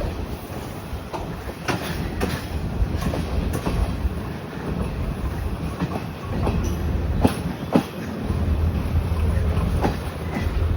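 A train running on the rails: wheels clicking over rail joints at uneven intervals over a steady low rumble, which grows louder about eight seconds in.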